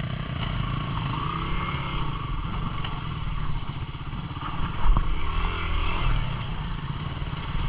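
Single-cylinder 250 cc four-stroke dual-sport motorcycle engine running at low trail speed, its revs rising and falling, with a sharp thump about five seconds in.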